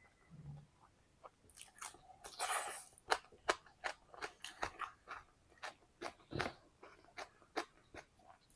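Close-miked eating: crisp food being bitten and chewed, with a run of sharp crunches and crackles and one denser crunch a couple of seconds in.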